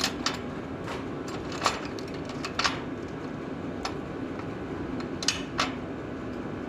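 Scattered sharp metallic clinks and taps from hand tools and small fasteners being handled while a copper starter strap and nut are fitted on a tractor, over a steady low hum.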